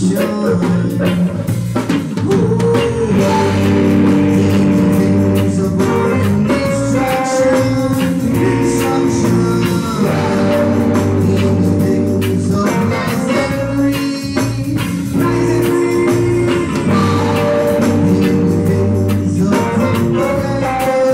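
Live band playing a mellow tune led by a brassy saxophone, over a drum kit.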